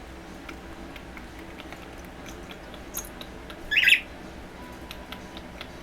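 Cockatiel giving one short, harsh squawk nearly four seconds in, over a quiet background of faint scattered clicks.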